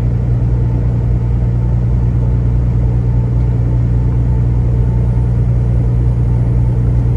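Semi truck running down the highway: a steady, low engine and road drone that holds the same pitch throughout.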